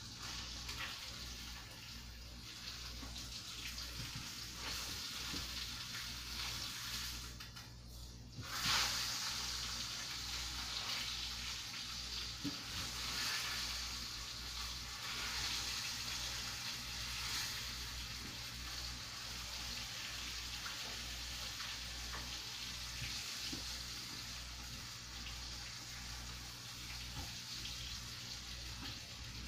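Catfish frying in hot oil in a skillet: a steady sizzle that turns suddenly louder about eight and a half seconds in, then holds.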